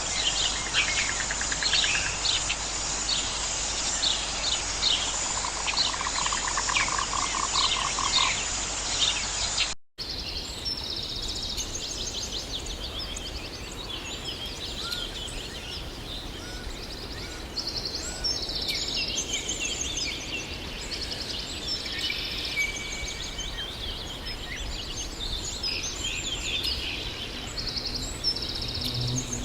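Birds singing and calling over a steady hiss of outdoor background, with rapid trilling calls early on. About ten seconds in the soundscape switches abruptly to a different chorus of repeated, higher bird phrases.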